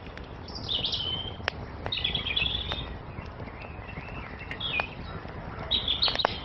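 Songbirds singing four short, high chirping phrases a second or two apart over the sharp pops and crackles of a wood fire, with a steady low rumble underneath.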